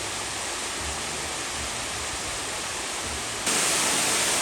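Waterfall in a mountain stream rushing steadily, turning louder about three and a half seconds in.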